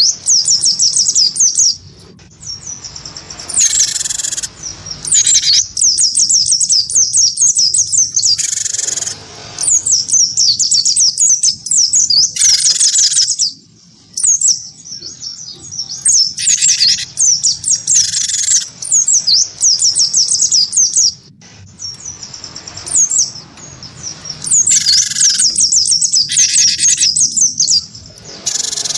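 Cage songbirds, a cinereous tit and an oriental white-eye, singing against each other in rapid, high twittering runs. Short, harsher buzzy phrases break in every few seconds, over a faint low hum.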